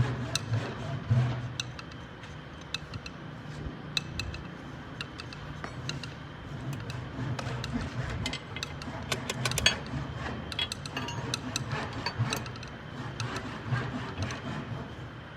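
Scattered metallic clicks and knocks, tools and metal parts being handled, over a steady low hum.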